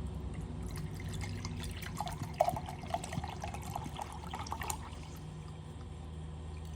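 Water being poured into an electric kettle pot, a splashing trickle that runs for about four seconds and then stops.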